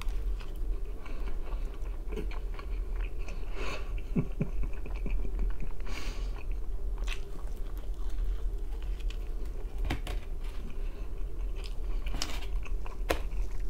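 Close-up mouth sounds of a man biting into a thin-crust pizza slice and chewing it, with scattered short clicks through the chewing.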